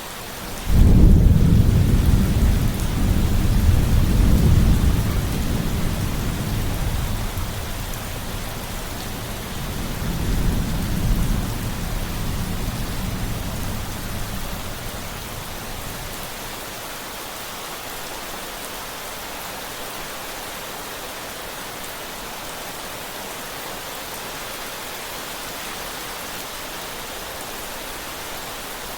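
Thunder rumbling over steady rain: a long low rumble breaks in suddenly about a second in, swells twice more and dies away after about fifteen seconds, leaving the rain hissing on its own.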